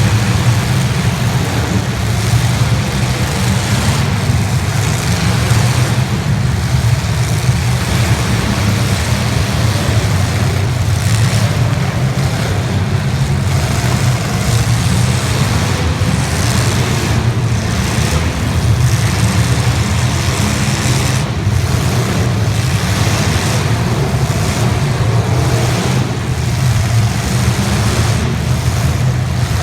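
Demolition derby cars' engines running together, loud and dense without letting up, with a few sharp knocks in the second half.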